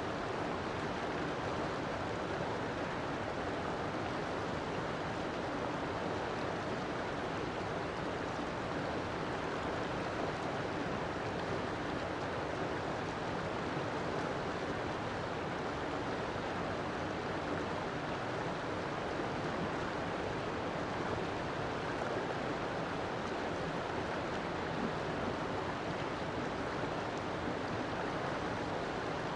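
River water flowing steadily over its bed, an even rushing sound with no breaks.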